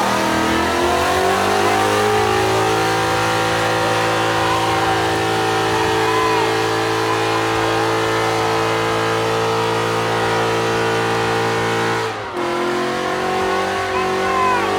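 Ford Mustang engine held at high, steady revs for a burnout: the revs climb over the first two seconds, hold level for about ten, drop suddenly near the end, then rise again.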